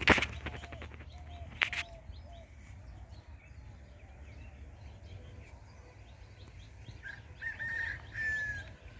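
Birds calling outdoors: scattered faint chirps, then a clearer run of short notes ending in one longer note near the end. Two sharp knocks in the first two seconds are the loudest sounds, over a steady low rumble.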